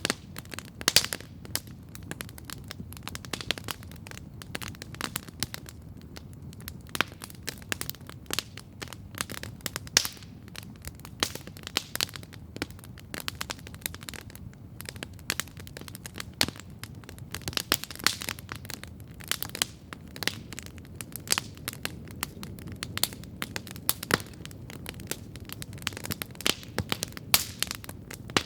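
Wood campfire crackling steadily, with irregular sharp pops and snaps over a low, soft rumble of burning.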